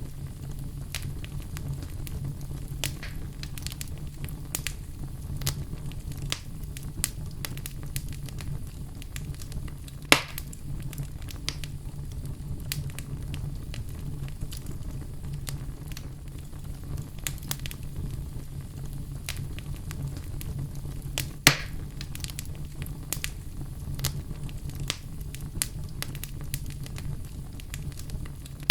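Wood fire crackling in a fireplace: frequent small crackles and pops over a steady low rumble, with two louder snaps about ten seconds in and again about twenty-one seconds in.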